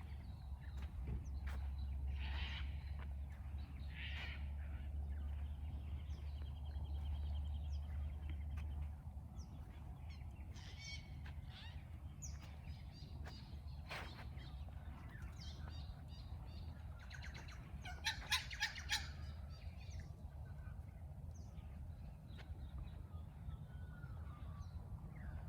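Wild birds calling: assorted chirps and short calls, with a louder burst of harsh squawks about two-thirds of the way through. A low steady rumble lies under the first third and stops abruptly.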